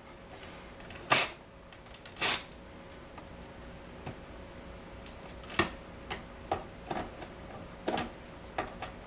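Washer door parts being handled and fastened by hand: scattered sharp clicks and light knocks of plastic and metal, two louder ones about a second apart near the start, then a run of smaller clicks in the second half.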